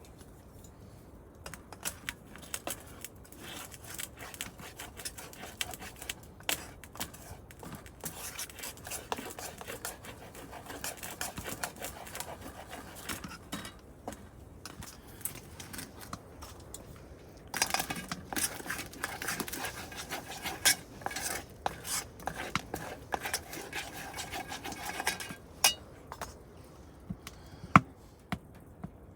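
A utensil scraping and clinking against a pan of eggs cooking on a camp stove, in irregular strokes and taps. It grows busier and louder for several seconds in the second half, then eases off to a few scattered clicks.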